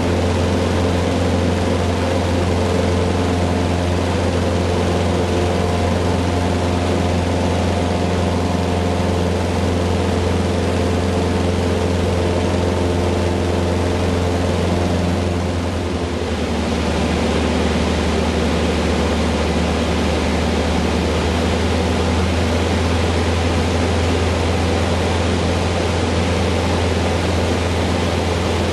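Cessna 150's four-cylinder engine and propeller running steadily with wind hiss. About halfway through the engine note dips briefly and changes, as with a change in power.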